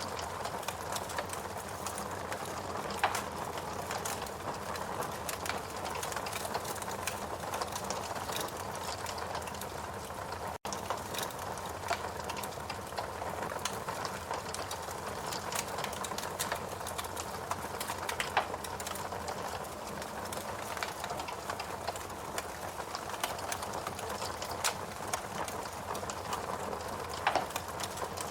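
Wood fire in a fireplace crackling: a steady hiss of burning logs with frequent small crackles and a few louder pops.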